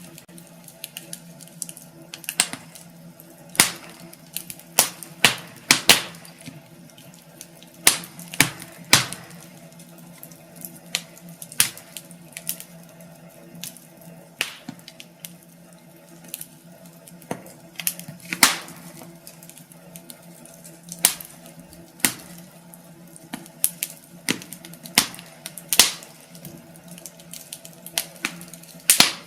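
Wood fire in a fireplace crackling, with irregular sharp pops and snaps of uneven loudness over a soft hiss. A faint steady low hum runs underneath.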